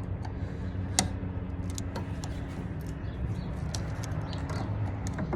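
Scattered light clicks and knocks of parts being handled during fuel pump removal, with one sharp click about a second in, over a steady low hum.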